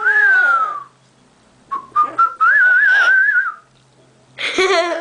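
A parrot whistling. A short whistle falls in pitch, then after a pause a longer warbling whistle climbs in steps.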